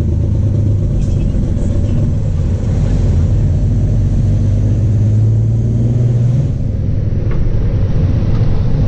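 Straight-piped Cummins ISX diesel in a Peterbilt tow truck with its Jake brake (compression engine brake) on, a steady low drone as the truck slows. The drone cuts off about six and a half seconds in, leaving the engine running.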